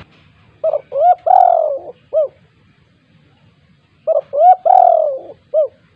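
Spotted dove cooing: two matching phrases about three and a half seconds apart, each a few quick short notes, one longer drawn-out coo and a short final note.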